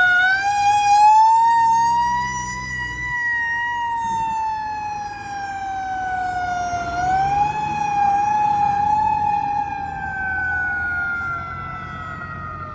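Fire engine siren wailing in slow cycles: the pitch climbs over about a second, then sags slowly for several seconds, climbing again about seven seconds in and once more near the end, over the low rumble of the truck.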